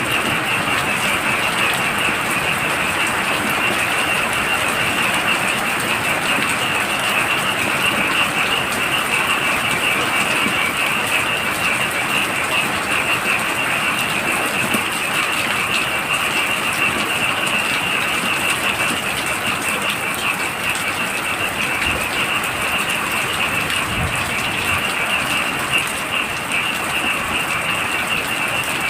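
Heavy rain falling steadily, with a continuous chorus of frogs: a dense, high-pitched pulsing trill over the hiss of the rain.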